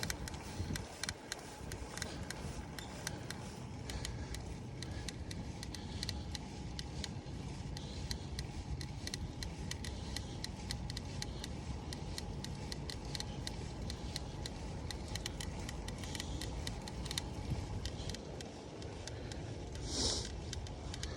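Irregular, rapid clicking from the stem and handlebar area of a Cannondale SuperSix EVO road bike, over a steady low rumble. The shop attributes it to the fully internal cable routing, and the owner found that taking the stem assembly apart and refitting it stopped the noise. A short hiss comes near the end.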